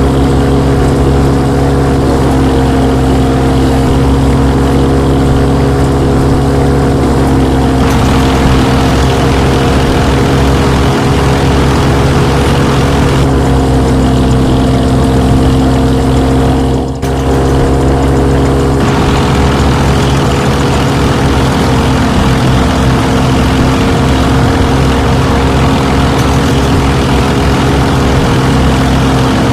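A small electric motor running steadily with a constant hum, dipping briefly about two-thirds of the way through.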